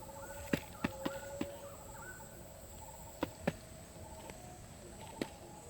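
Outdoor ambience: a steady high-pitched insect drone with faint, wavering bird calls, broken by several sharp clicks or snaps.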